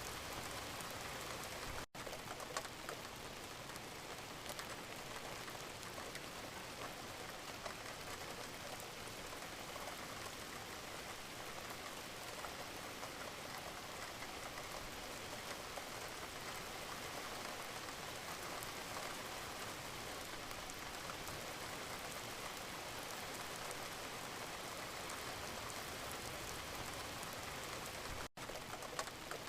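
Steady rain falling, an even hiss with scattered individual drop ticks. The sound drops out for an instant twice, about two seconds in and near the end.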